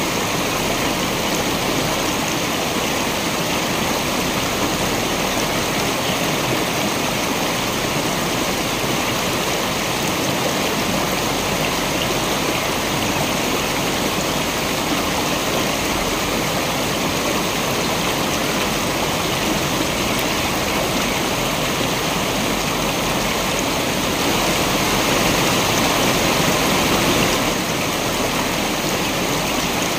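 Waterfall: water rushing and splashing in a steady, even wash of sound, a little louder for a few seconds near the end.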